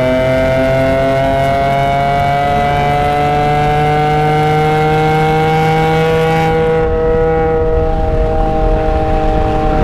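BMW E46 M3's S54 straight-six accelerating at full throttle in third gear, its pitch rising steadily as the revs climb past 6,000 rpm. About seven seconds in the driver lifts off the throttle and the engine note loses its rasp and levels off, heard from inside the cabin.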